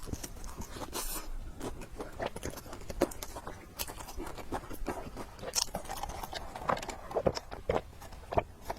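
Close-miked eating sounds: a person chewing and biting food, with many short, irregular mouth clicks and snaps.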